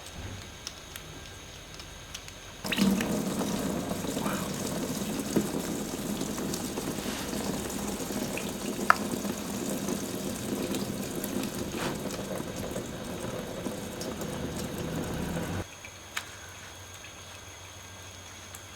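Warm old engine oil mixed with flush draining from a motorcycle's sump into a container, a steady pouring stream that starts suddenly about three seconds in and cuts off about three seconds before the end.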